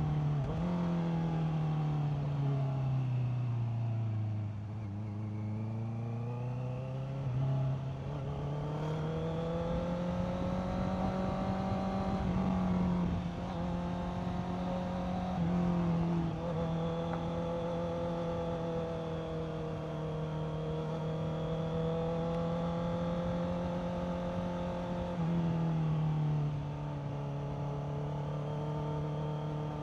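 Honda CBR650R inline-four engine running under way during a ride. The engine note falls away a few seconds in, bottoms out, then climbs back up and holds fairly steady. The pitch breaks and steps several times, as at gear changes, the last one dropping to a lower note near the end.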